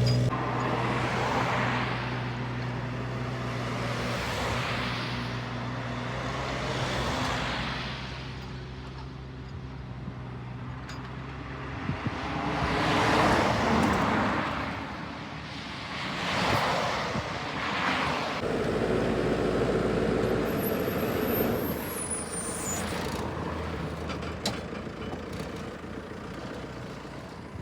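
A motor vehicle engine runs steadily for about the first twelve seconds, then stops. Through it and after it, several rushes of vehicle noise swell and fade.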